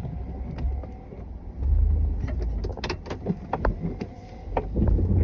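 Snowplow vehicle running, with a low engine rumble that grows louder about one and a half seconds in and again near the end, and many short clanks and knocks.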